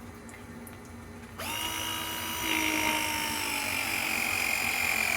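A small electric motor starts about a second and a half in and runs with a steady high whine, dropping in pitch as it winds down near the end.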